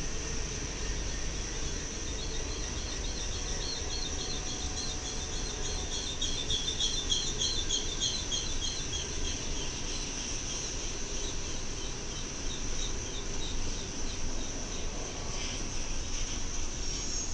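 A long freight train of ballast hopper cars and container cars rolling past with a low rumble and a steady high-pitched wheel squeal. For several seconds in the middle there is a rapid pulsing chirp, about five a second, loudest a few seconds after it starts.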